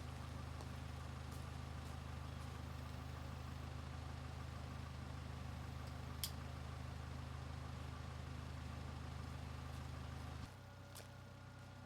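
A steady low mechanical hum, with one sharp click about six seconds in; the hum drops suddenly to a quieter, slightly different hum about ten and a half seconds in.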